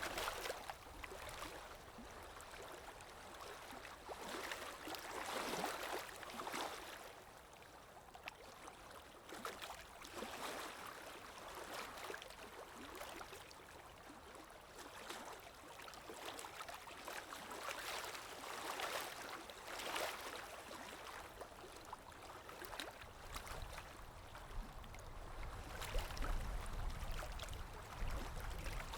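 Underwater water ambience: gurgling, rushing water noise that swells and fades every few seconds, with a low rumble building near the end.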